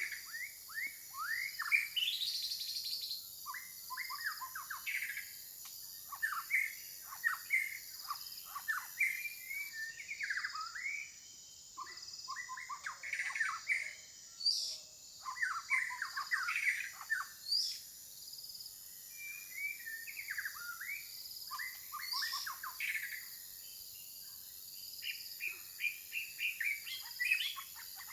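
Several birds chirping in quick runs of short, falling notes, with brief lulls, over a steady high hiss.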